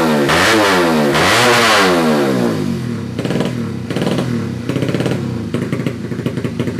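Bored-up 155 cc Yamaha Jupiter single-cylinder four-stroke motorcycle engine revved in quick throttle blips, its pitch rising and falling about twice a second. About two and a half seconds in it drops to an uneven idle, broken by a few short blips.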